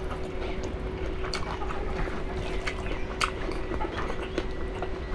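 Close-up chewing of beef innards, with scattered wet mouth clicks, over a faint steady hum.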